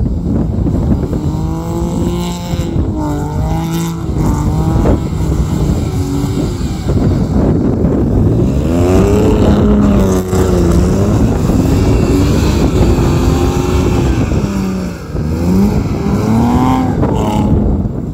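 Audi A4 B6's 3.0 V6 through a Remus exhaust with a custom H-pipe and the secondary cats deleted, revving up and down again and again as the quattro car spins donuts on snow. A steady rushing noise runs underneath.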